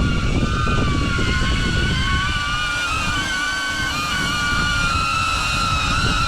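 Airscaphe X4 Pro caged drone in flight: its propellers give a multi-tone whine that wavers up and down as the motors keep adjusting speed. Under the whine is a rough low rumble of wind buffeting.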